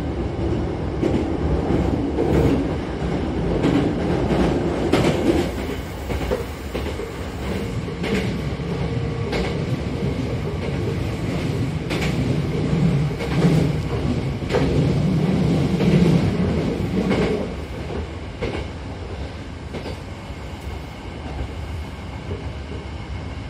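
Hankyu train car heard from inside while running: a steady low rumble of wheels on rail with irregular clicks from the track. The sound drops to a quieter level about three-quarters of the way through.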